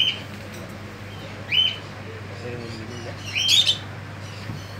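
Bird chirping: three short, high chirps, the loudest about three and a half seconds in, over a low steady electrical hum.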